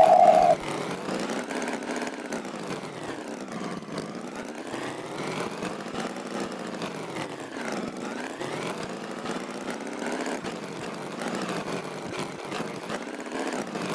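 Cartoon tractor engine running steadily, its tone sweeping slowly up and down. A short high tone sounds right at the start.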